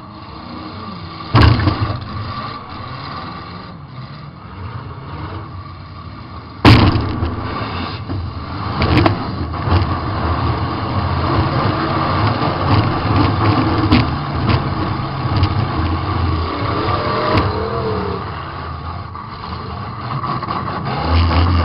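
Demolition derby car's engine running and revving, heard from inside the car, with two heavy crashes of metal a few seconds apart as it hits other cars, the second the loudest, and lighter knocks later on.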